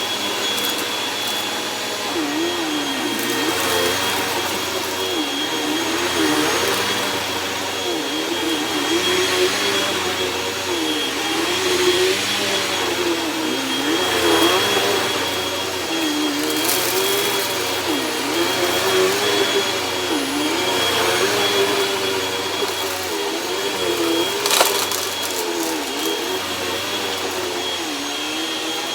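Hoover Rewind bagless upright vacuum cleaner running, with a steady high whine over the motor and a lower tone that dips in pitch and recovers every second or two. It is running with its filters cleaned and its clogged hose cleared, and the owner says it sounds a lot better. A sharp click comes near the end.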